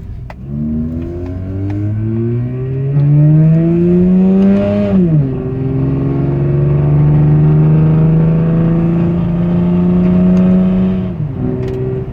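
2004 Mazda RX-8's two-rotor Wankel rotary engine accelerating from a stop, its pitch rising through first gear, dropping about five seconds in at the shift to second, then climbing slowly again before falling near the end. In second gear the owner hears a fluttering noise that he fears means the replacement engine is on its last leg.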